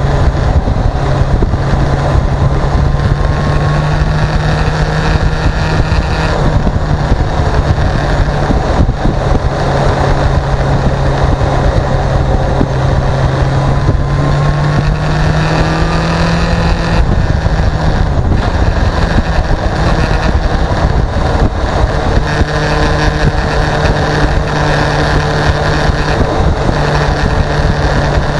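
Motorcycle engine running under way, with wind rushing over the helmet- or bike-mounted action camera's microphone; the engine pitch rises a couple of times.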